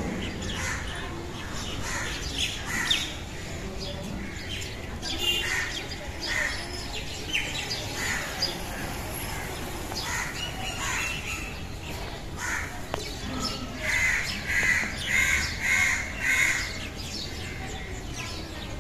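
Birds calling and chirping outdoors, short calls scattered throughout, with a run of about five loud calls in quick succession near the end, over a steady low background noise.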